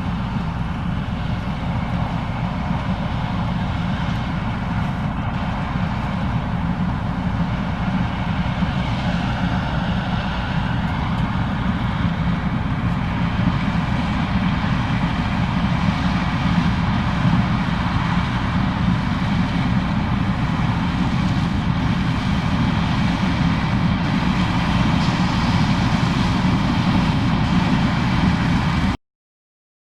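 Case IH 2366 combine running steadily while harvesting corn, a continuous diesel and machinery drone. It cuts off suddenly near the end.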